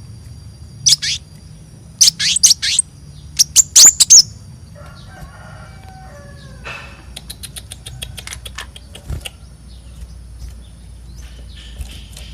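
Konin bird calling: loud, sharp, high chirps that sweep downward, given singly and in quick clusters of three or four, followed by a fast run of fainter ticking notes.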